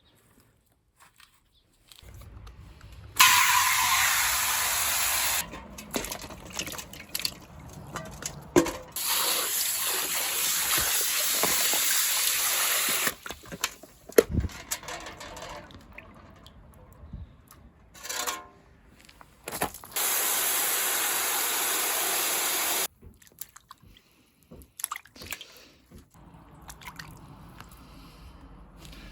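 Water running hard from a tap in three spells of a few seconds each, starting and stopping abruptly, with knocks and handling noises in between.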